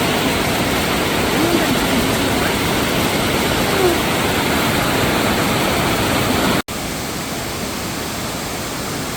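Rushing water of a mountain valley stream and its falls, a steady full hiss. About two-thirds of the way in it cuts out for a moment and resumes a little quieter.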